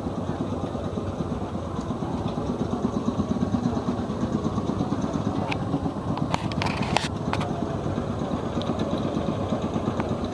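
The 305 V8 in an Allis-Chalmers ED40 tractor idles with a steady, fast exhaust pulse. A few sharp clicks come about six to seven seconds in.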